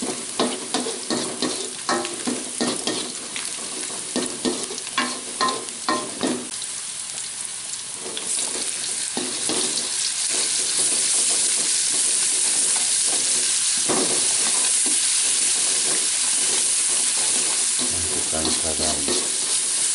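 Sliced shallots and green chillies frying in oil in a wok, with a spatula scraping and stirring through them in repeated strokes. About eight seconds in, the sizzling grows louder and steadier.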